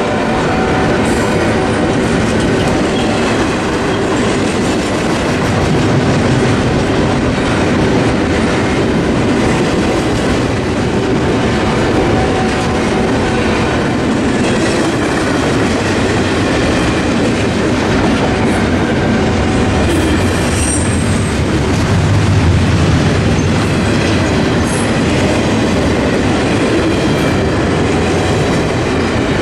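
CSX double-stack intermodal freight train rolling steadily past: the container cars' wheels make a continuous rolling noise on the rails with a clickety-clack over the joints.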